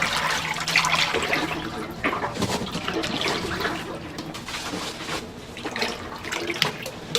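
Chicken deep-frying in a vat of hot oil: a steady bubbling sizzle with scattered crackles.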